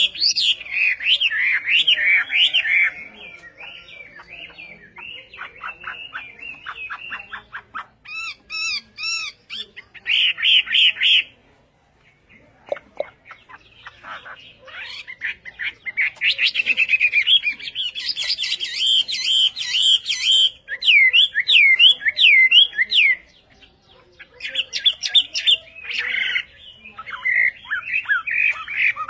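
Hwamei (Chinese hwamei, họa mi) singing a long, varied song of rapid repeated notes, trills and clear rising-and-falling whistles, broken by short pauses.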